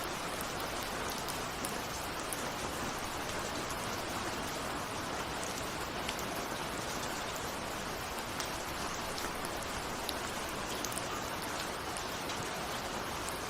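Steady rain with individual raindrops ticking on a window pane, no thunder.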